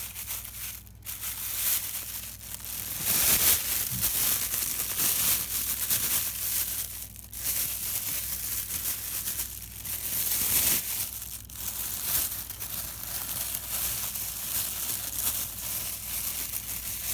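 Crinkling and rustling with a few brief pauses, as of something being crumpled and handled.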